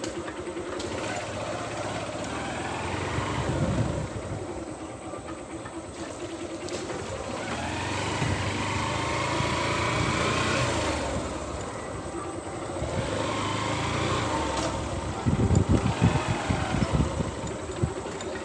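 Motor vehicle engine running, growing louder toward the middle with a rising pitch, then easing off, with choppy low rumbles near the end.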